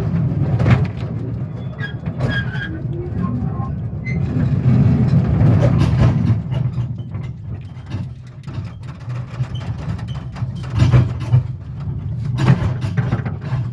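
A small narrow-gauge railway locomotive's engine running steadily, with rattling and clanking from the train throughout.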